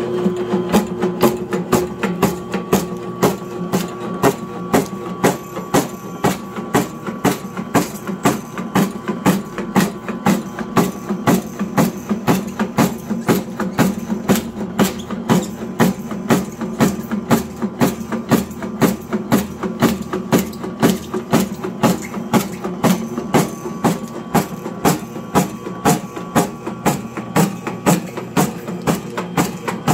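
Electric medicinal-herb cutting machine running with a steady motor hum, its blade striking in an even knock about twice a second.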